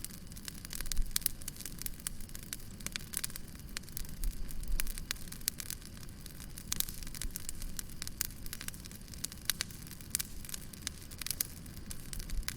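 Wood fire crackling: frequent sharp pops and snaps over a steady low rumble of the flames, with louder bursts of crackling about a second in and around four to five seconds in.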